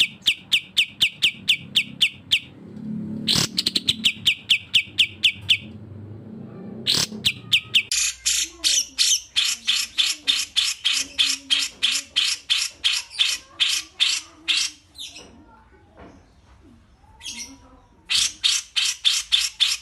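Bulbuls (cucak jenggot and kapas tembak) calling in fast runs of repeated sharp chattering notes, about five a second, some narrow and whistled, others harsher and wider. The runs break off briefly about three-quarters through, then start again.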